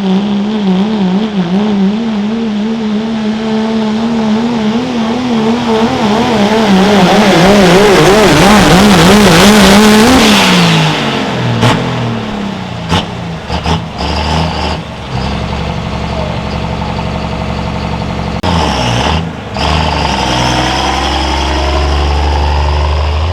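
First-generation Dodge 2500's Cummins diesel pulling a sled at full throttle, its revs wavering as it hooks and bounces down the track. It gets louder toward the end of the pull, then about halfway through the throttle comes off and the engine drops quickly to a low idle, with a few sharp knocks.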